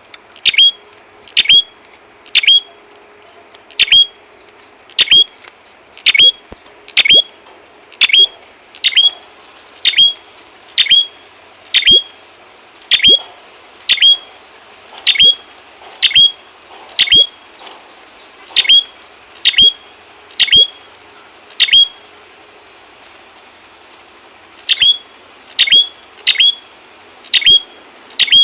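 Prenjak kepala merah, a small Indonesian songbird, calling in a lure recording: loud sharp chips, each a quick downward sweep, repeated about once a second, sometimes in quick pairs, with a short pause about three quarters of the way through.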